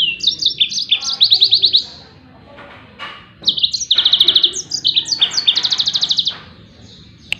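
Yellow-fronted canary (Mozambique canary) singing its fast 'tembakan' bursts: long runs of rapid, repeated downslurred high notes, about ten a second. There are two phrases, one at the start and a longer one from about halfway through, with a short pause between them.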